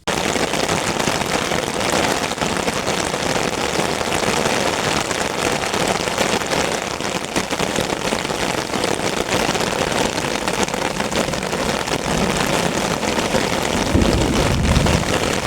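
Heavy rain falling steadily, a dense even hiss that starts suddenly. A deeper low rumble swells briefly near the end.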